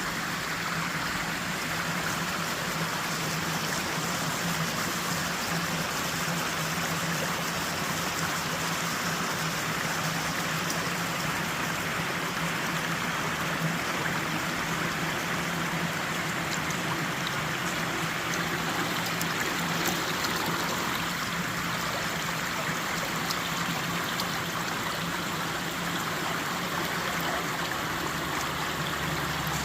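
Stream water running steadily, a continuous rushing and trickling.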